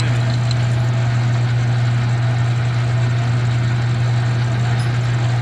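Metal lathe running steadily, with a strong, even low hum.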